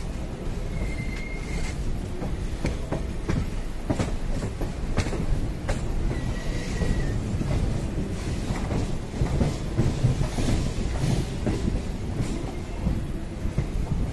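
A moving train's wheels rolling over rail joints and points, heard from the open door of the coach: a steady rumble with sharp clacks. Two brief thin squeals come about a second in and again about six seconds in.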